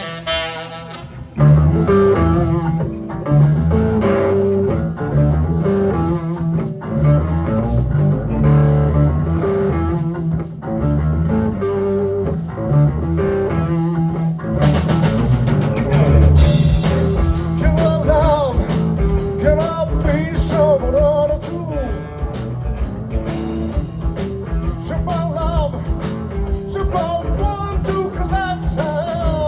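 A band playing an upbeat rock-funk tune: bass and guitar come in loudly about a second and a half in, cymbals and drums fill out the sound about halfway through, and a lead line with bent, sliding notes plays over it.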